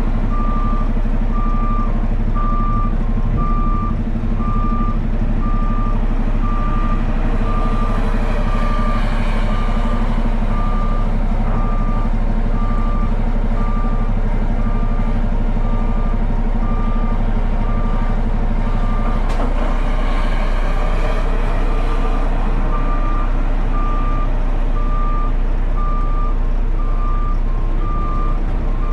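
Backup alarm on heavy equipment beeping steadily about once a second, over a heavy machine's engine running at a steady drone.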